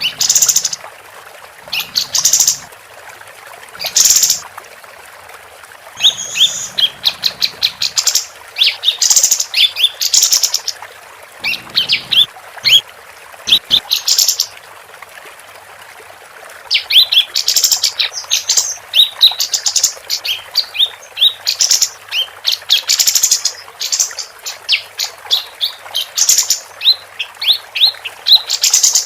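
Female pied triller (kapas tembak) singing: bursts of high, rapid chirping trills with short pauses, coming thick and almost without break in the second half.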